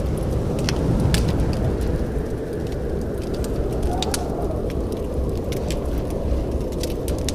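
Wood fire in a fireplace crackling, with scattered sharp pops and snaps at irregular moments over a steady low rumble.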